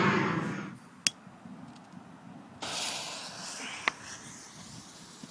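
Firework ignition: a sharp pop about a second in, then a sudden spraying hiss from the lit firework about halfway through, with another sharp crack, before the hiss fades.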